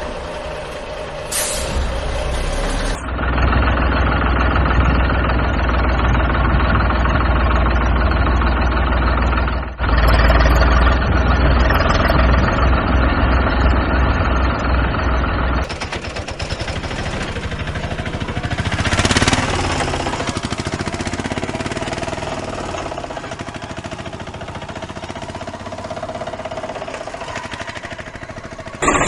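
Vehicle engine running sounds with a strong low rumble, in several pieces that cut abruptly about 3, 10 and 16 seconds in.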